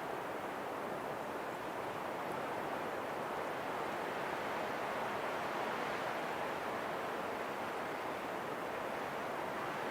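Steady rushing wind that swells slightly about halfway through.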